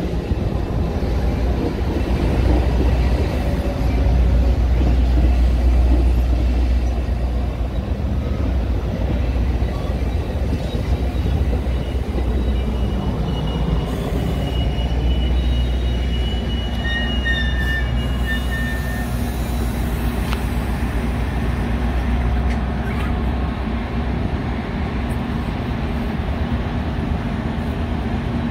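A train passing with a continuous heavy low rumble from its wheels and engines. A few brief high wheel squeals come through about halfway.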